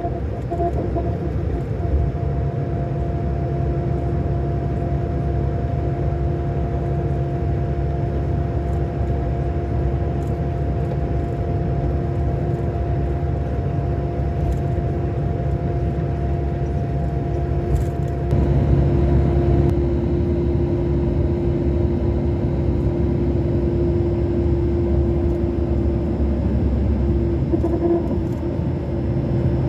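Scania K-400 coach's six-cylinder diesel engine running steadily under way, a low rumble with a steady hum over it. It gets a little louder about two-thirds of the way through.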